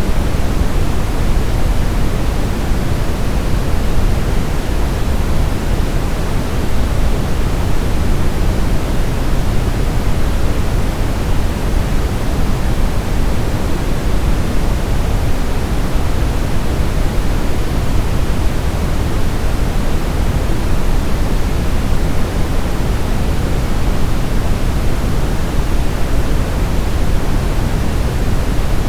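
Steady synthetic sleep noise: an even, unbroken hiss weighted toward the low end, like pink noise, with no rhythm or changes.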